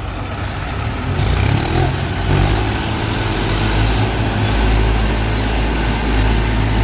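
Tractor diesel engine revving up about a second in, then running hard with a steady heavy low drone.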